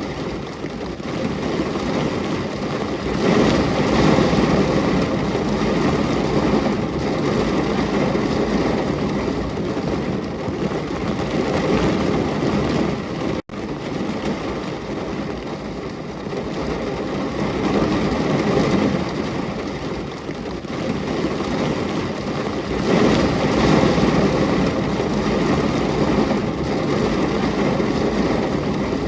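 Steady heavy rainfall, swelling and easing slowly, with a sudden split-second dropout about halfway through.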